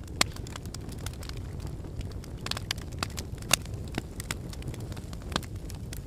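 Wood fire burning in a fireplace: a steady low rumble of flames with irregular sharp crackles and pops from the logs, the loudest pops about a quarter second in and near the middle.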